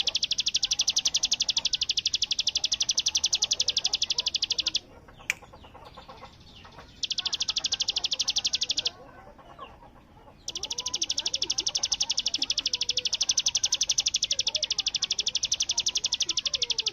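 Hill prinia singing a very fast, rattling high trill, the machine-gun-like 'bren' burst song. It comes in three long bursts: about five seconds, then two seconds, then six seconds, with short pauses between them.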